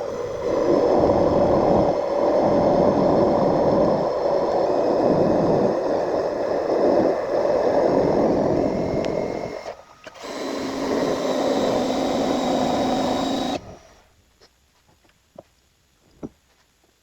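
Lathe running under power while turning a cone, a steady mechanical running sound with a few steady tones. It stops just before the 10-second mark, restarts at a different pitch, and stops again about three and a half seconds later, leaving a few light clicks.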